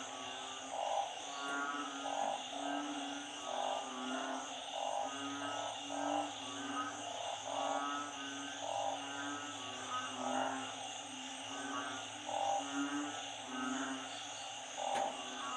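A chorus of frogs, narrow-mouthed frogs and small frogs, calling over and over in short repeated notes, more than one call a second. A steady high insect drone runs underneath.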